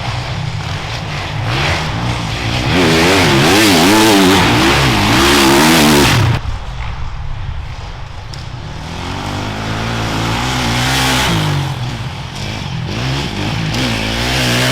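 Off-road enduro motorcycles riding past, the engines revving up and down over the rough going. One bike is loudest a few seconds in and cuts off sharply about halfway through; a second bike builds up and is loud again near the end.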